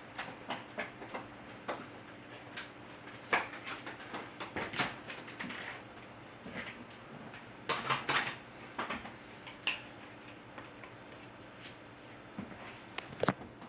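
Irregular plastic clicks, knocks and rattles as the hose of a Dirt Devil Power Max upright vacuum is detached and handled, with the motor off.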